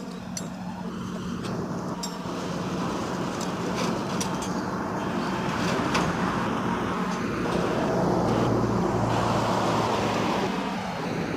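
A motor vehicle engine running steadily, growing louder toward the middle and easing off near the end.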